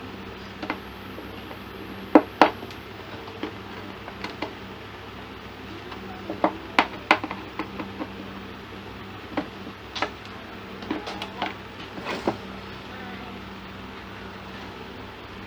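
Irregular sharp clicks and knocks, as of small parts and tools being handled, over a steady low electrical hum.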